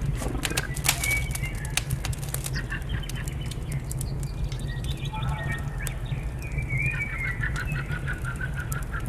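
Fire crackling and popping over a steady low rumble, with songbirds calling; near the end one bird gives a fast run of repeated chirps.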